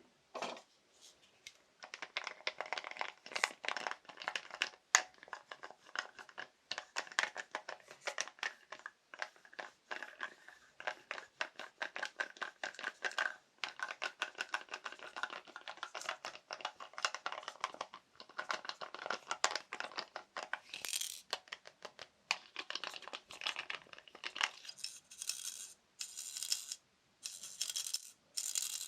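Fast, dense tapping on assorted small household objects, many of the taps carrying a light ringing note. Near the end the tapping turns brighter and more rustling.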